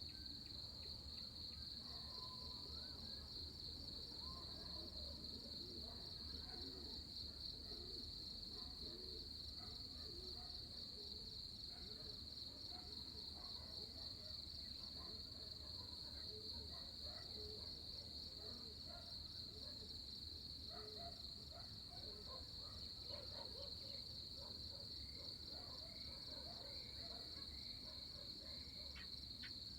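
A pre-dawn insect chorus, crickets trilling in one steady high-pitched shimmer, with faint scattered bird calls beneath and a low background rumble.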